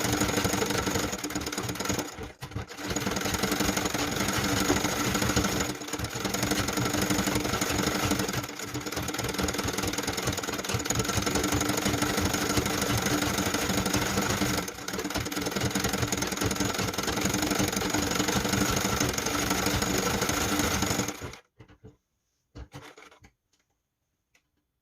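Sewing machine stitching machine embroidery, running steadily at speed with a few brief pauses, then stopping near the end, followed by a couple of faint handling sounds.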